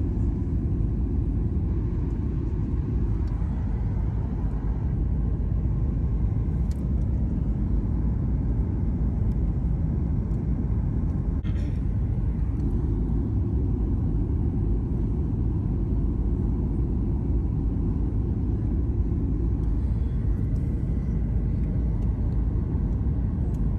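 Steady low rumble that holds at an even level throughout, with a few faint ticks.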